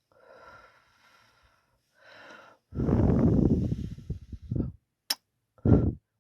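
Close-up ASMR kissing and mouth sounds right on the microphone. Soft breaths come first, then a long, loud, bass-heavy smooch against the mic, a sharp kiss smack about five seconds in, and a short loud kiss near the end.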